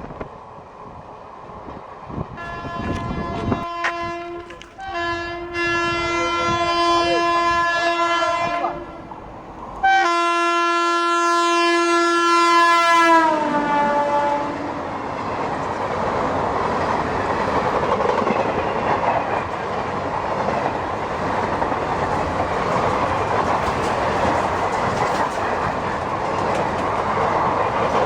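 Indian Railways locomotive sounding its horn while passing at high speed: a short blast, then two long ones, the last dropping in pitch as the locomotive goes by. The coaches then rush past with a steady loud roar and wheel clatter.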